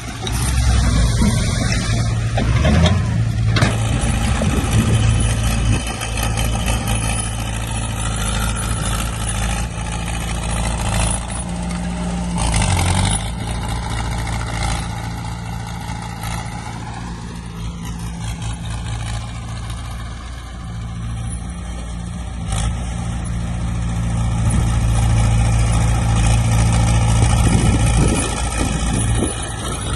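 Heavy diesel earthmoving machinery, dump trucks and a bulldozer, running steadily under load, the engine note rising and falling at times, with a few sharp knocks or clanks.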